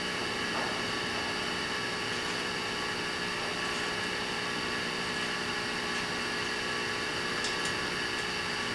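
Steady hum and hiss with several constant tones and no distinct events: shop background noise.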